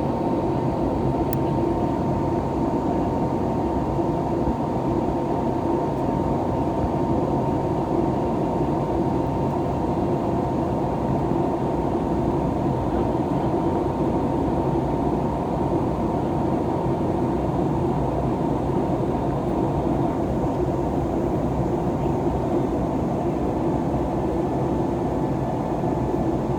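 Steady cabin noise of an Airbus A321neo's Pratt & Whitney PW1100G geared turbofan engines heard from inside the cabin, a constant rush with a steady whine just under 1 kHz.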